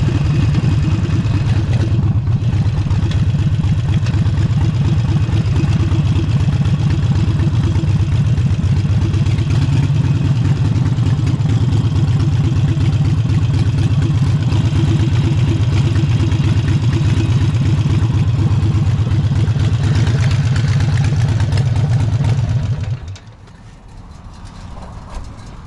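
Harley-Davidson Forty-Eight's air-cooled V-twin running steadily through an aftermarket Vance & Hines exhaust, a deep pulsing rumble at an even engine speed. About 23 seconds in the engine is switched off and the rumble stops abruptly.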